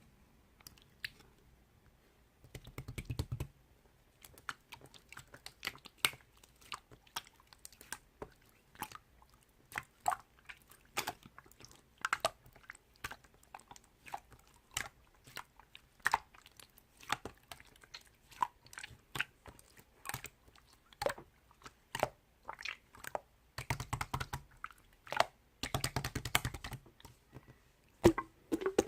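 Clear pearl slime being squished and folded by hand, making sharp sticky clicks and pops, a few a second, with denser crackly stretches about three seconds in and again near the end.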